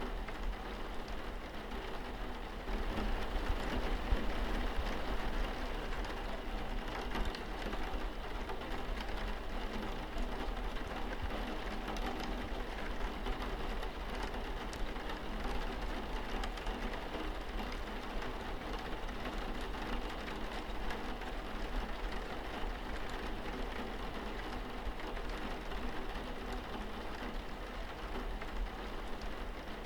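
Steady rain falling on a window, an even hiss of drops, with a steady low hum underneath.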